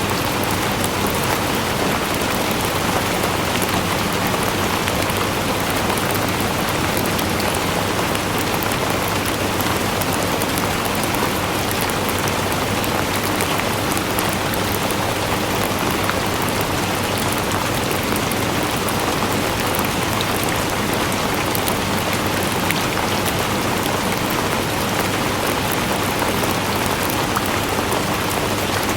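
Steady, heavy rain falling, a dense even hiss dotted with countless small drop patters, without a break.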